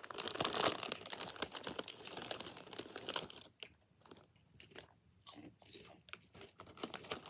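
Lay's potato chips being bitten and chewed: dense crunching for about the first three seconds, then slower, separate crunches.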